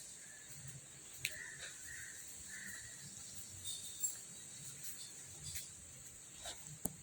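Outdoor ambience: a steady high-pitched insect drone, with a few short distant bird calls and some light clicks.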